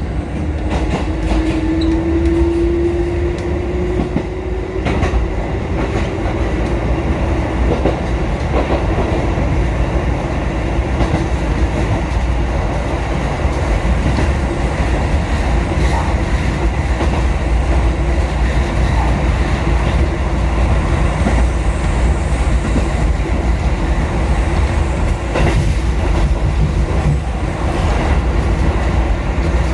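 Kotoden 1080/1100 series electric train running between stations, heard from inside the front car. Steady running noise with wheels clicking over the rail joints, and a rising whine in the first few seconds.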